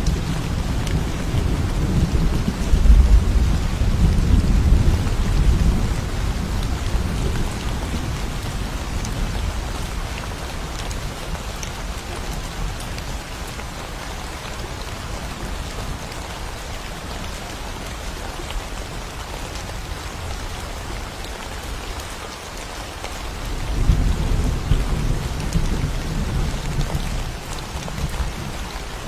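Steady rain with rolling thunder. A deep rumble dies away over the first several seconds, and another roll of thunder builds near the end.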